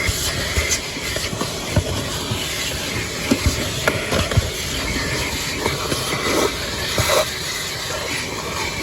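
Car wash vacuum running with a steady rushing hiss of suction through the hose, and scattered small clicks and knocks as the nozzle picks up dirt and bumps the car's interior.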